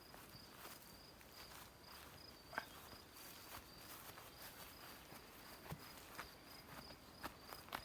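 Faint outdoor quiet with a steady high-pitched chirping that pulses about three times a second, and scattered soft clicks and crunches, the sharpest about two and a half seconds in.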